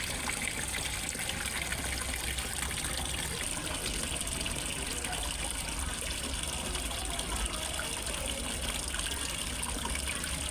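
Steady splashing and trickling of falling water into a fish pond, like a small pond waterfall.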